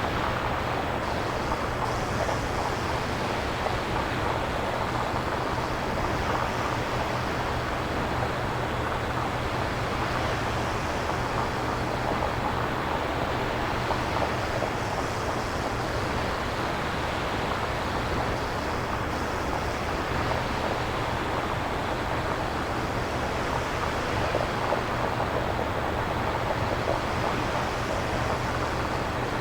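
Synthesized nature-sound noise: a steady hiss over a low rumble, its upper part slowly swelling and fading every several seconds.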